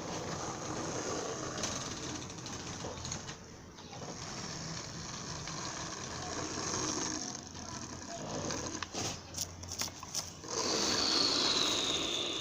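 A train's engine running steadily at rest, a low hum under a rushing noise, with a few sharp clicks about nine seconds in and a high whine that slowly falls near the end.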